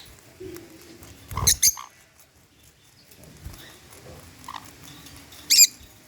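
Small parrots giving short shrill screeches: two in quick succession about a second and a half in and one more near the end, with faint chirps between.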